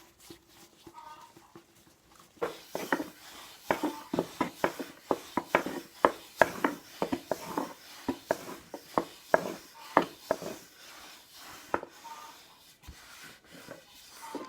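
An irregular series of sharp knocks and taps, two or three a second, from hands-on kitchen work. It starts about two seconds in and thins out near the end.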